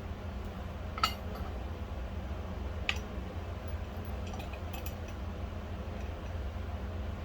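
Two sharp metallic clinks about two seconds apart, then a few fainter ticks, over a steady low hum: small metal pieces being handled and set down during the build.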